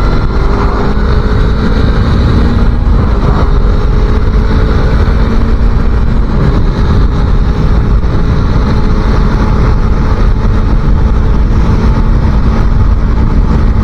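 250cc motorcycle engine running at road speed, its pitch rising a little over the first few seconds and then holding steady, under heavy wind buffeting on the microphone.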